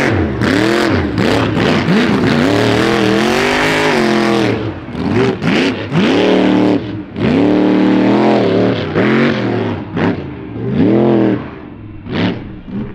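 Monster truck engine revving hard over and over, its pitch climbing and falling with each throttle stab and dropping briefly between pulls.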